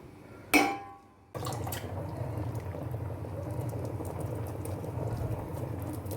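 A single sharp clink with a short ring about half a second in, then after a brief gap a steady bubbling of chicken curry simmering in the pot.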